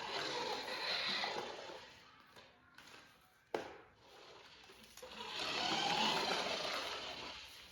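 Toy remote-control car's small electric motor whirring in two runs, one at the start and a longer one about five seconds in that rises and falls, with a single sharp click between them.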